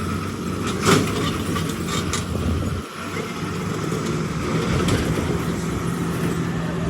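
An engine running steadily, with a sharp knock about a second in.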